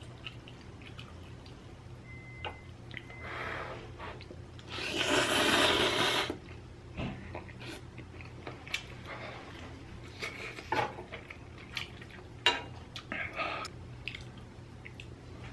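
Quiet eating sounds of a person eating inari sushi: soft chewing and scattered small clicks and taps. About five seconds in comes a loud rushing hiss lasting about a second and a half.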